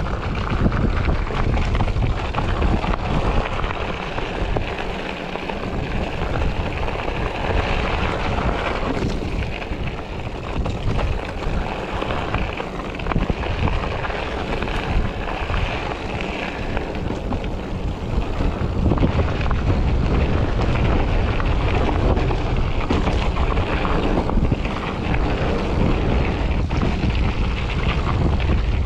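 Wind rushing over the microphone of a moving bike, with a steady rumble of rolling noise underneath.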